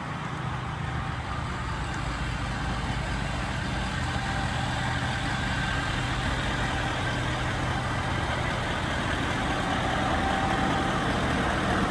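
Ford Super Duty F-250 pickup's engine idling steadily, a low even hum.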